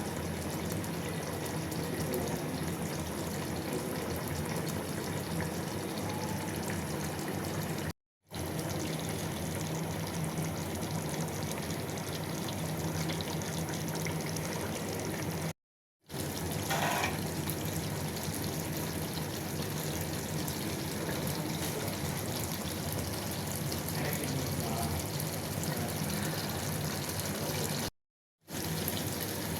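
Chicken curry cooking in a pan: a steady, watery hiss, cut off by three brief silences.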